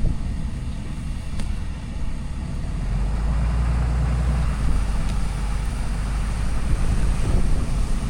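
Cummins diesel engine of a Ram pickup running, a steady low rumble that grows heavier about three seconds in.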